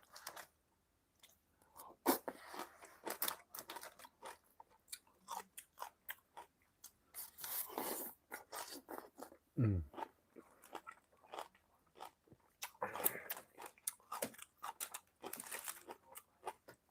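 Close-up crunchy chewing and biting, irregular crisp crunches, of young-radish kimchi (yeolmu kimchi) being eaten. A brief low vocal sound falling in pitch about ten seconds in.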